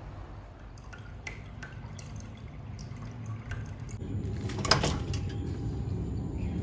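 Water dripping, with scattered light clicks and a short clatter about four and a half seconds in, over a low steady hum.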